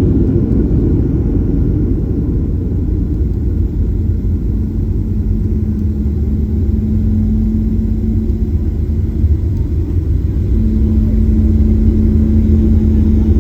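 Cabin noise inside a Boeing 737-800 rolling on the ground after landing: a steady low rumble of engines and wheels, with a steady hum that comes in about four seconds in, drops out briefly, and returns near the end.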